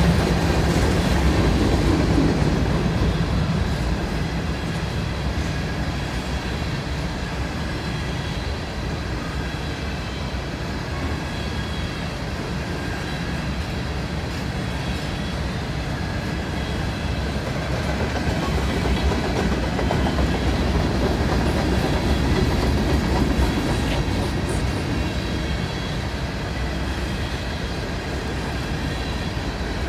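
Norfolk Southern covered hopper cars of a grain train rolling past close by: a steady low rumble with the wheels clicking on the rails.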